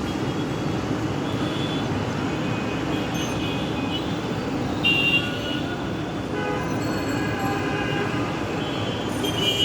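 Steady city traffic noise, with short vehicle horn toots breaking through now and then, the loudest about five seconds in.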